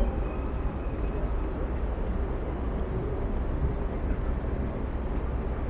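Steady city street traffic noise heard while riding a bicycle along a busy downtown road, with a constant low wind rumble on the microphone.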